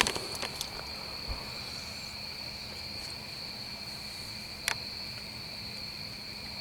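Steady chorus of insects: a continuous high trill at two pitches, with a few sharp clicks, one at the very start and one about two-thirds of the way through.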